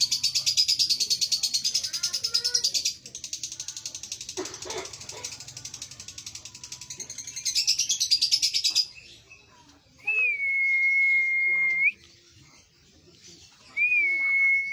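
Male lovebird singing a long, very fast, high-pitched chattering trill that runs unbroken for about nine seconds, softer in the middle. It then stops, and two steady single-note whistles follow, each about two seconds long.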